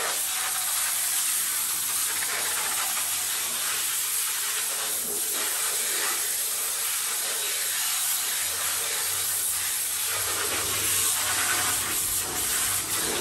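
High-pressure spray wand of a self-serve car wash blasting water onto grates and mats, a steady loud hiss.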